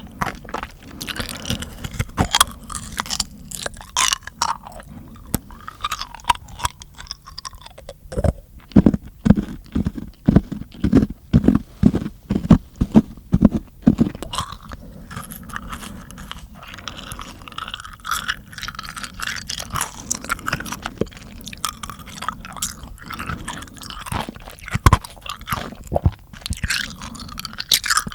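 Close-miked mouth sounds: wet clicking, smacking and tongue sounds, with a run of sharper, even clicks about two or three a second in the middle.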